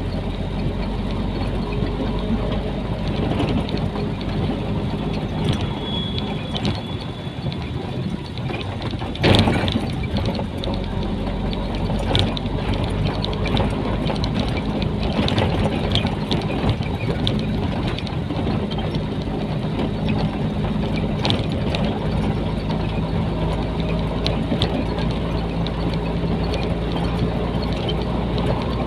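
Nissan Diesel container truck's diesel engine running steadily, heard from inside the cab while driving, with rattles and clicks from the cab throughout and one loud knock about nine seconds in.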